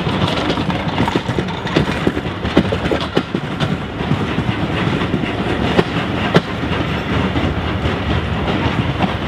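Passenger coaches of a steam-hauled train rolling past, their wheels clattering over the rail joints with a fast, irregular clickety-clack over a steady rumble. The clicks thin out about halfway through as the last coaches go by.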